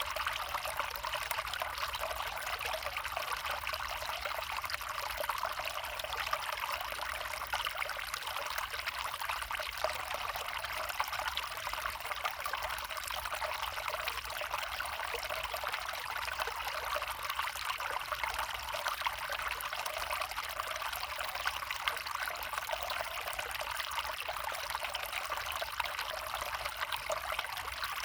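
A small forest stream with its water trickling and flowing steadily.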